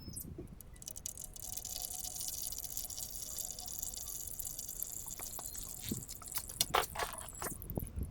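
Engine oil pouring in a steady stream into a container, with a few clicks and knocks near the end.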